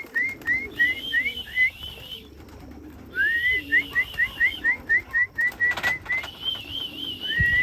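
Whistling to call homing pigeons into the loft: a rising whistle, then a rapid run of short upward-flicking whistle notes, with a wavering higher whistle held above them. It comes in three bouts, with a pause about two seconds in and another near six seconds.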